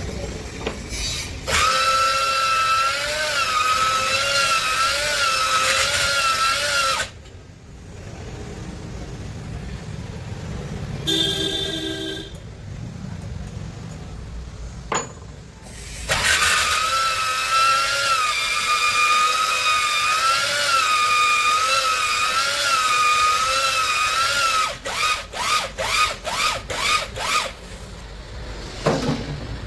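Electric drill spinning a cylinder hone in the bore of a Cummins 6BT diesel block: a motor whine whose pitch wavers as the hone is worked, in two long runs, then a series of short on-off bursts near the end as the trigger is pulsed.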